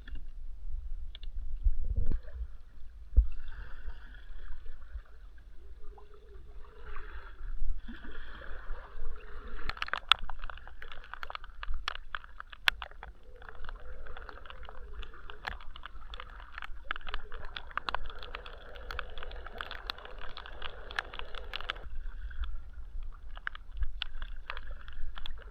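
Water sloshing and gurgling against a kayak's hull as it moves on the water, with scattered small splashes and knocks and a steady low rumble underneath.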